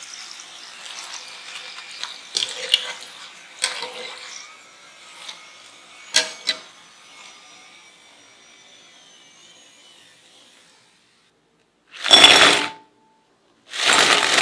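Kitchen food-preparation handling: scattered clinks and knocks of utensils and cookware with faint ringing, fading out, then two loud rushing bursts, about a second each, near the end.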